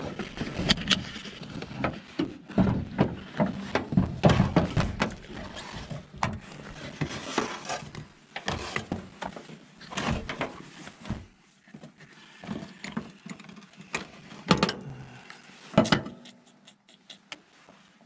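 Irregular metallic clicks, clanks and knocks of a wrench and hands working on a truck's battery terminals, dense at first and growing sparser, with a couple of louder knocks late on.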